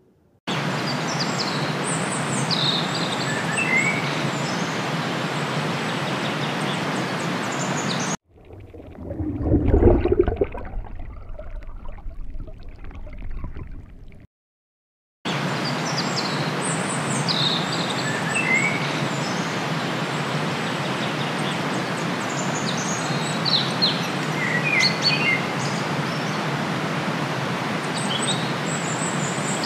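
Small birds chirping now and then over a steady outdoor hiss. About eight seconds in, this gives way to about six seconds of low underwater rumble that swells and fades. After a brief silence the hiss and scattered bird chirps return.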